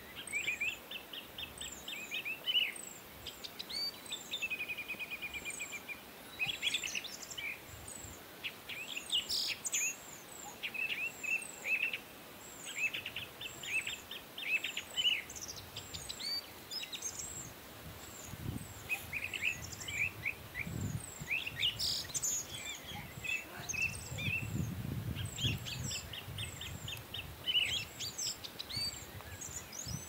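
Birds calling: quick runs of short repeated notes and chattering phrases, with thin high chirps repeating over them throughout.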